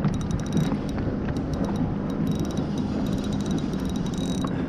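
Fishing reel clicking in rapid runs while a bass is fought from a kayak, over a steady low hum.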